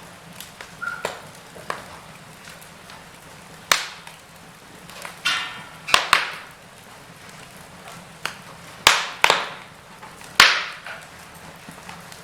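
Wood fire crackling in a fireplace: irregular sharp pops and snaps, the loudest about four, six, nine and ten seconds in, over a low steady hiss.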